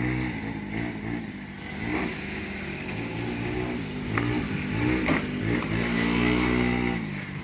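Minibike's small engine revving up and down several times, then held high for about a second near the end before dropping back.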